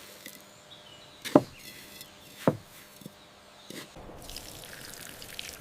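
Two sharp knocks about a second apart, each with a brief ring, then a soft steady hiss begins about four seconds in.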